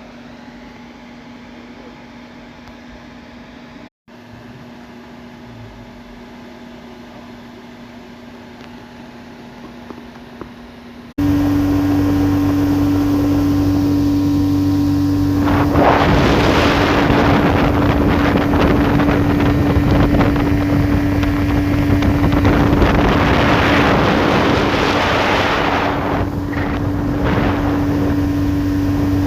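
Boat's outboard motor running steadily, at first as a quieter hum; about a third of the way in it cuts to much louder running at speed, with wind rushing over the microphone that swells and fades.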